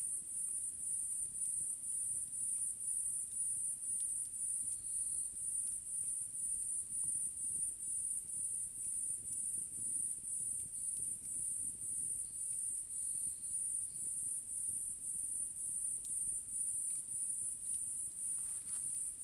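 Night-time crickets chirring continuously in a high-pitched, steady, evenly pulsing chorus.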